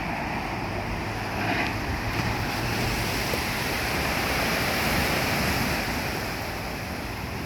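Ocean waves washing onto the shore in a steady rush that swells and eases a little, with wind rumbling on the microphone.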